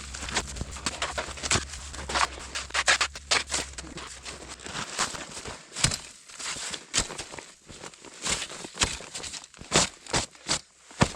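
Footsteps crunching on snow, irregular steps with a few louder crunches. A low steady hum under the first part stops a little before halfway.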